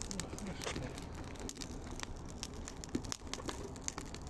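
Young campfire of paper and pine needles burning, crackling with scattered sharp pops.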